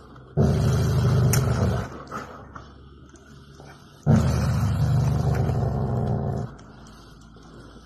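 Adult golden retriever growling low over its food bowl, twice: a growl of about a second and a half, then after a pause a longer one of about two and a half seconds. It is a warning to the puppy beside it, guarding its food.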